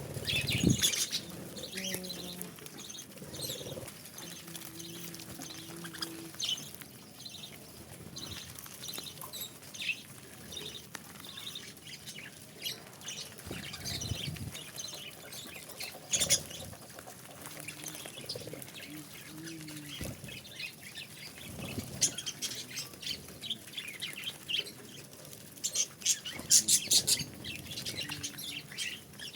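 Budgerigars chirping in many short, scattered calls, with a few sharper clicks mixed in.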